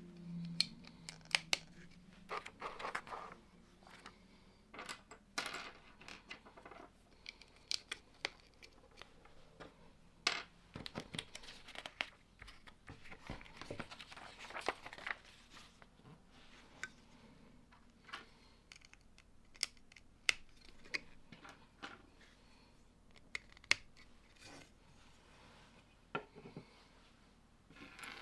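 Plastic Lego bricks being handled and pressed together: sharp, irregular clicks and small rattles, with a few short stretches of rustling.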